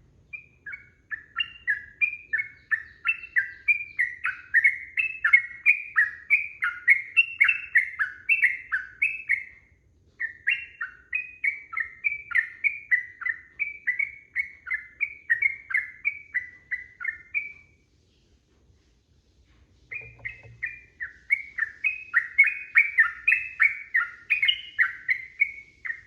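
Yellow-vented bulbul singing its long, rapid chattering song, a fast string of bubbly notes, about three to four a second. It sings in three long phrases with short pauses after the first and second.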